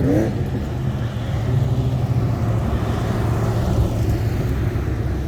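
Classic car engines running as cars drive slowly past in a parade: a steady low engine rumble, with a car's sound swelling as it passes in the middle.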